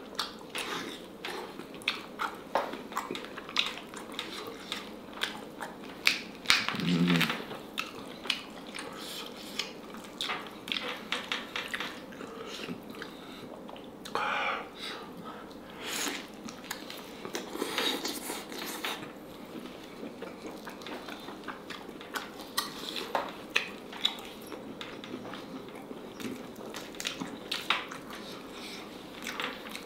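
Close-miked eating of boiled H'Mông black chicken: chewing and biting with many short wet mouth clicks, the meat torn apart by gloved hands, and light clinks against a sauce bowl.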